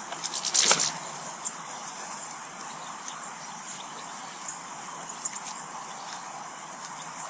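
Small birds feeding at a garden seed feeder: scattered light taps and clicks of beaks on seed and feeder, with a louder cluster of clicking and rustling about half a second in, over a steady high hiss of outdoor ambience.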